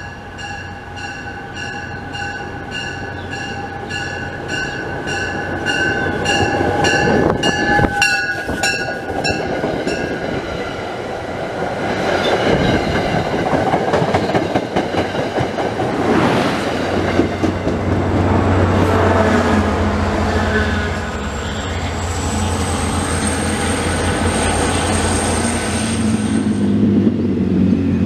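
MBTA commuter rail train passing close by. For the first ten seconds a ringing tone pulses about twice a second, then the coaches go by with wheels rumbling and clattering over the rails. A steady low engine drone joins from about halfway through, and a high whine cuts off a couple of seconds before the end.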